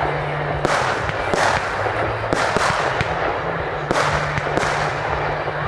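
Fireworks display: irregular sharp bangs of bursting shells, about one every half second to second, over continuous crackling.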